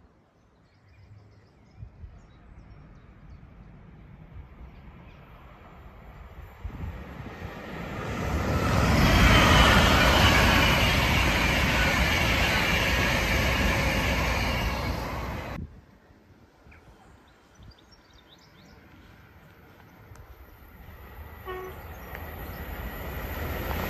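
LNER express train passing through the station at speed: its rush builds over a few seconds, holds loud for about seven seconds, then cuts off suddenly. Afterwards the next train can be heard approaching, growing louder near the end.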